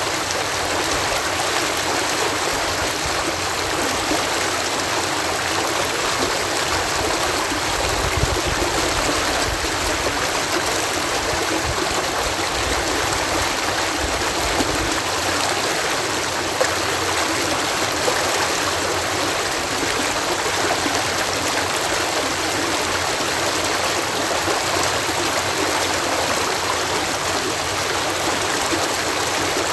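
Water pouring steadily over a canal lock gate, a continuous even rush of falling water.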